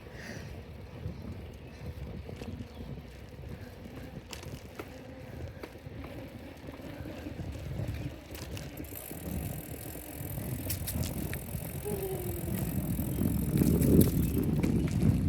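Bicycle being ridden: a low rumble of the ride with scattered clicks and rattles, growing louder toward the end.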